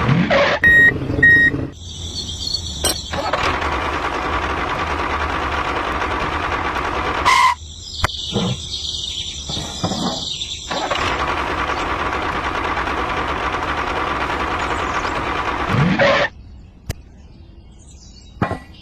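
Small electric motor of a DIY miniature bulldozer running with a steady whine. There are two short high beeps near the start, and the motor sound stops and starts abruptly a few times.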